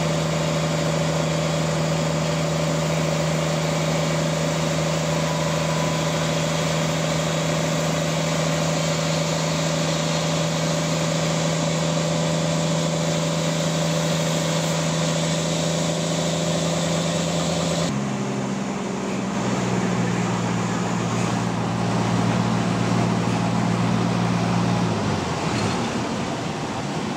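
Sawmill engine running at a steady speed with a constant hum. About two-thirds of the way through the sound changes abruptly to a different, lower-pitched steady hum, which falls away near the end.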